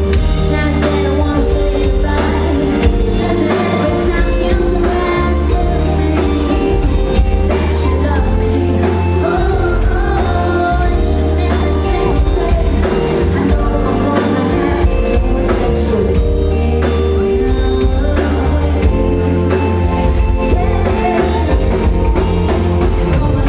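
Live pop concert music heard from the audience: a band with heavy bass and a steady drum beat, with singing over it.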